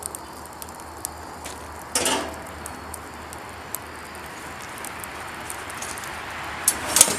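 Wood campfire crackling with scattered faint ticks and pops. A short rustle comes about two seconds in, and a few sharp metal clinks near the end.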